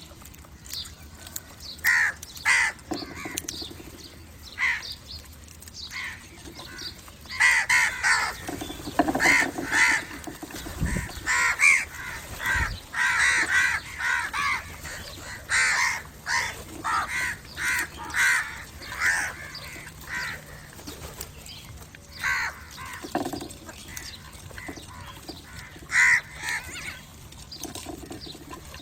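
Crows cawing: short, harsh calls repeated many times, a few at first, then coming thick and overlapping through the middle before thinning out again.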